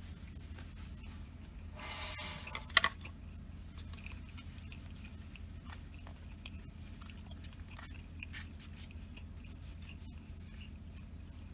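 Close-miked chewing of a shrimp tempura sushi roll, with small wet mouth clicks over a steady low hum. A short voiced hum of the mouth comes about two seconds in, and a sharp click, the loudest sound, follows near three seconds.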